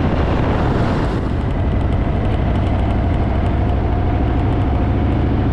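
Harley-Davidson motorcycle running steadily, a dense low engine rumble under a broad rushing noise.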